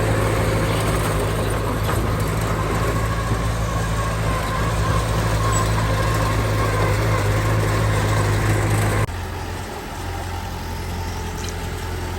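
Heavy diesel engine running steadily. About nine seconds in the sound drops suddenly to a quieter, lower engine note.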